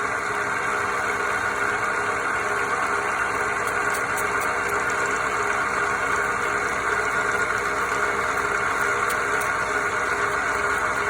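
A machine's motor running steadily at an even level, with a constant hum.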